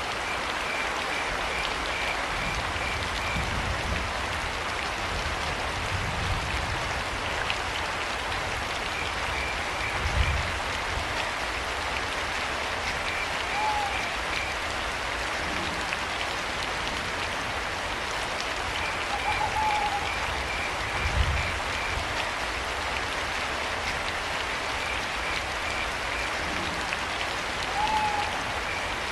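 Steady rain with crickets chirping in short, rapid pulse trains every few seconds, and a short owl hoot three times. Two low thumps stand out, about a third and about two-thirds of the way through.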